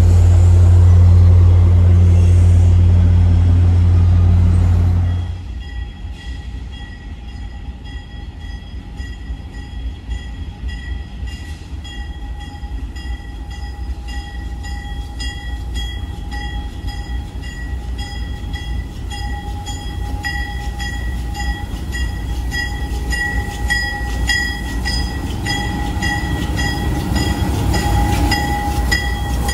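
Railway train sounds: a loud, steady low diesel-type drone for about five seconds that cuts off abruptly. Then a train's rumble grows louder toward the end, with steady high ringing tones and a regular ticking pattern over it.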